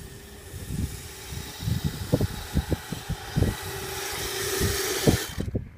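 Kyosho Blizzard SR radio-controlled snowcat's electric motor and tracks whirring as it drives through deep powder snow, with a steady whine that comes and goes and a hiss that builds in the last couple of seconds before cutting off sharply near the end. Irregular low thumps run underneath.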